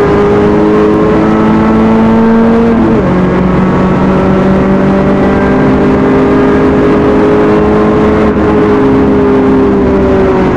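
Renault Clio Williams's 2.0-litre 16-valve four-cylinder engine, heard from inside the cabin, pulling hard: its note climbs, drops sharply at a gear change about three seconds in, climbs again, then falls away gently near the end.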